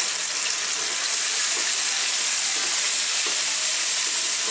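Oil and a little water sizzling steadily in a flat frying pan around sliced onions, garlic and green chillies, while a slotted spoon stirs in turmeric and chilli powder: the spices being fried down (koshano) in the oil.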